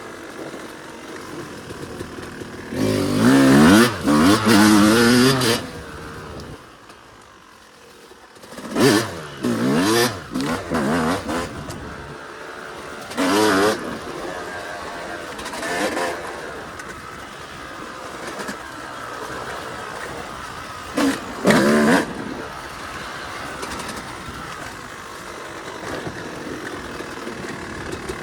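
Yamaha YZ250 single-cylinder two-stroke dirt bike engine under riding load, the throttle opened in repeated bursts whose pitch rises and falls, between stretches of low throttle. The loudest bursts come a few seconds in and again about twenty-one seconds in, with a brief lull at around seven seconds.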